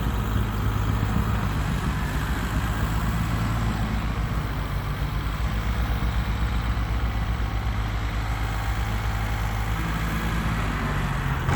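Engine running steadily at a low, even pitch, dipping slightly in level about halfway through.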